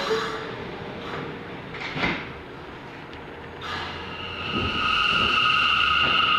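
NYC subway R179 train at a station: the last note of the two-tone door chime and the doors shutting with a knock, another knock about two seconds in, then the train pulling out with a steady high-pitched whine that sets in and grows louder after about four seconds.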